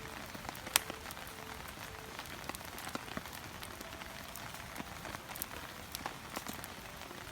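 Wood fire crackling in a Coleman Fire Disc: a steady hiss dotted with frequent sharp pops, the loudest under a second in.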